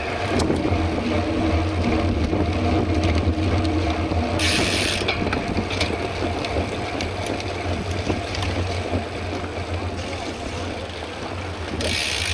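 Mountain bike on the move heard from an on-bike camera: a steady low rumble of tyres and wind on the microphone, with the ticking of the freewheel hub ratchet. Two brief rushes of hiss break in, about four seconds in and near the end.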